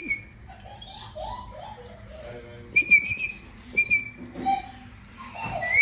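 Baby canary chirping, with short high begging calls, during hand feeding. Brief whistled notes come in at the start, about three seconds in and about four seconds in.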